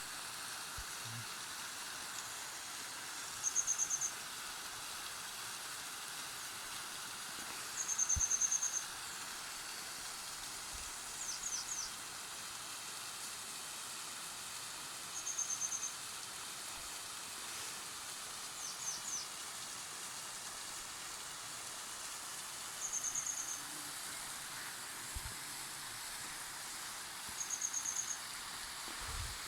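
Forest ambience: a steady hiss, with a bird giving a short high trill five times, every few seconds, and twice a quick run of three falling notes.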